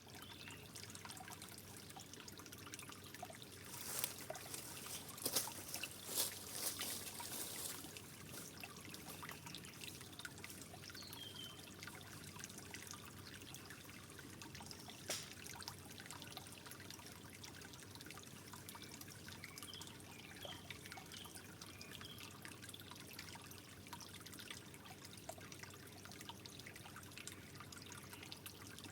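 Water trickling steadily, with a few louder drips about four to eight seconds in and once more near the middle.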